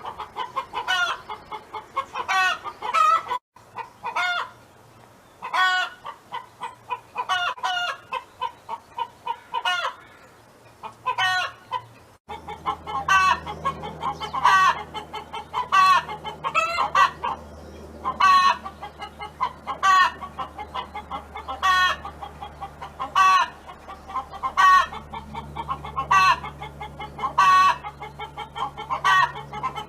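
Hen clucking in a steady series of short, harsh calls about once a second. A low steady hum sits underneath from about twelve seconds in.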